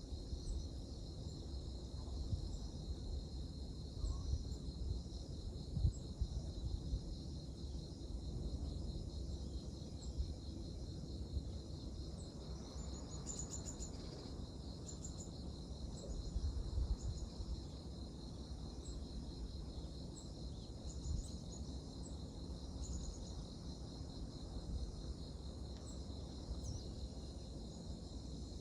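Insects trilling steadily in a continuous high chorus, with a few short high chirps scattered through it and a low rumble underneath.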